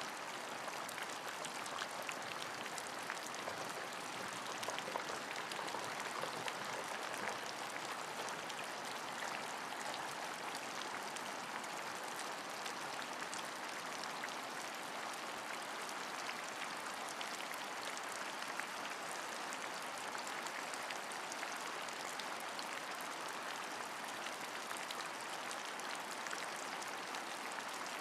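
Steady rain falling, an even hiss of many fine drops pattering, unchanging throughout.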